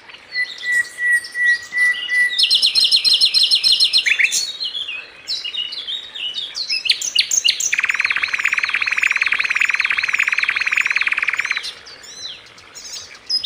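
Songbird in full, vigorous song: a varied run of chirps and whistles, with a fast high trill about 2.5 s in. A long, dense trill from about 8 to 11.5 s carries wavy whistles over it.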